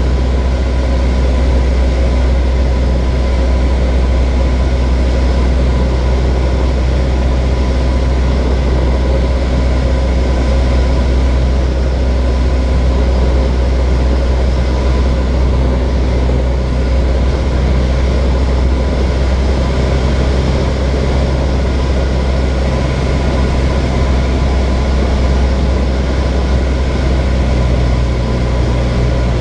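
Steady drone of a small propeller plane's engine heard from inside the cabin, loud and unchanging with a deep hum and a few steady tones above it.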